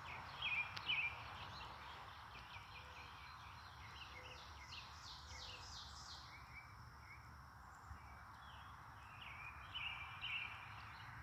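Faint outdoor background with birds chirping: a couple of short calls about a second in, a run of quick rising notes around the middle, and a few more calls near the end.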